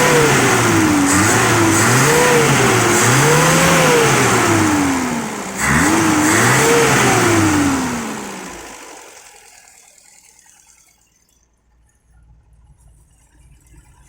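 Small motorcycle engine, its carburetor freshly cleaned and fitted with a new repair-kit gasket set, revved repeatedly: about five blips of the throttle, the pitch rising and falling each time. After about eight seconds the revving stops and the engine sound dies away.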